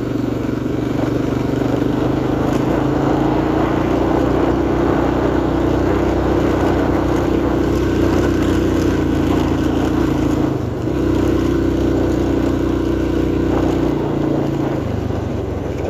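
Yamaha XT350 single-cylinder four-stroke engine pulling at low revs in gear up a hill. The engine note rises slowly, drops away briefly about eleven seconds in, then picks up again and falls near the end.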